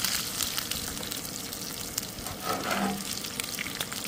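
Bacon and potatoes frying in bacon grease in a cast iron skillet: a steady sizzle with fine crackling. A metal spatula scrapes the pan briefly about two-thirds of the way through as food is lifted out.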